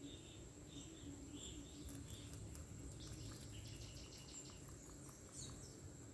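Rabbit chewing greens: a run of quick, faint crunching clicks through the middle. Underneath is a steady high-pitched insect drone, with short repeated chirps in the first couple of seconds.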